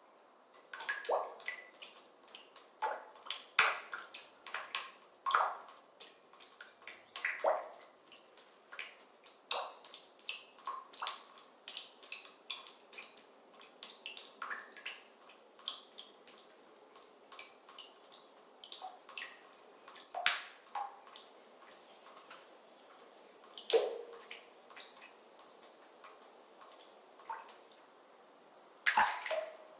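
Water drops falling and plopping into water, irregular and several a second, thinning out in the later part, with a burst of drops near the end.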